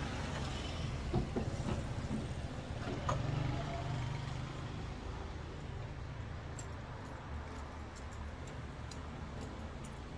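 Steady low road and engine rumble inside a moving car, with a few small knocks and rattles in the first few seconds.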